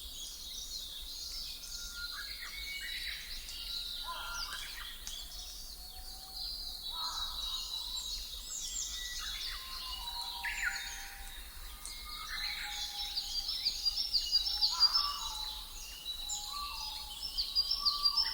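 Several songbirds chirping and singing together: many short, high chirps mixed with lower whistled notes. A run of quick repeated chirps grows louder near the end.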